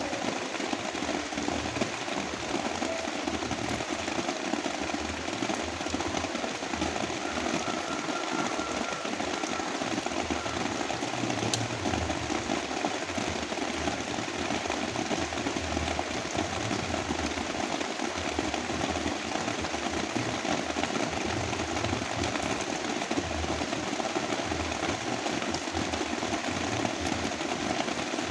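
Heavy rain mixed with brown noise: a dense, steady hiss with a low rumble underneath, unchanging throughout.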